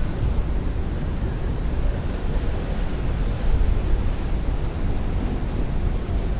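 Heavy rain beating on a window with strong wind rushing outside, a constant dense hiss with a deep low rumble; a gust swells the higher hiss about three seconds in.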